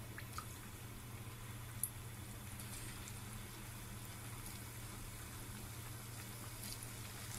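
Pieces of dough frying in hot oil in a small saucepan: a faint, steady sizzle with a few sharp little pops, over a constant low hum.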